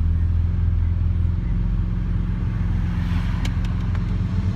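Lamborghini Aventador SV's V12 engine running at a steady low drone, heard from inside the cabin, with a slight change in its note about a second and a half in. A few sharp clicks sound about three and a half seconds in.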